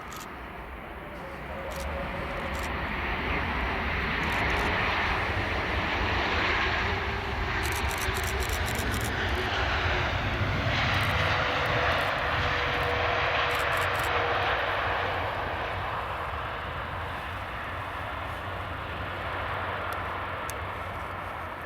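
Jet airliner passing the airfield: its engine noise swells over a few seconds, holds loud for about ten seconds with a low rumble, then slowly fades away.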